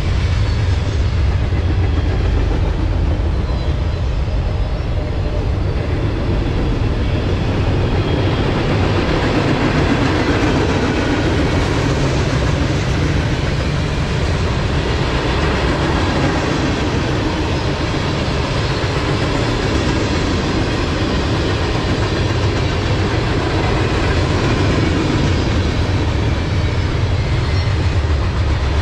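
Freight cars of a mixed freight train (gondolas and tank cars) rolling steadily past on the near track: a continuous, heavy rumble and clatter of steel wheels on rail that stays at one level throughout.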